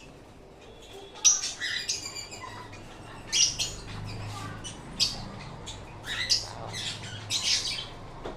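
Sun conure squawking: about seven short, shrill, high-pitched calls spread across a few seconds.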